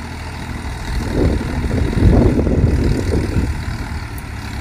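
Tractor engine running and swelling louder from about a second in, as if taking load or being revved, then easing back near the end.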